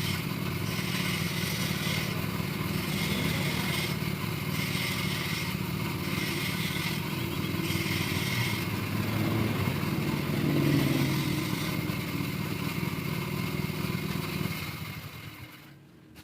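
Motorcycle engine running, its sound swelling and easing every couple of seconds, then fading away near the end.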